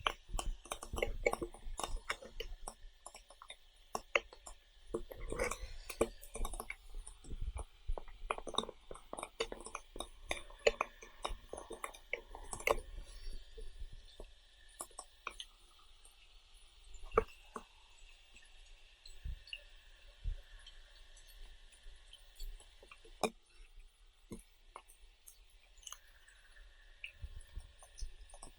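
Close-up eating sounds: chewing with many irregular small clicks and taps, busiest in the first half and sparser later, over a steady high-pitched hum.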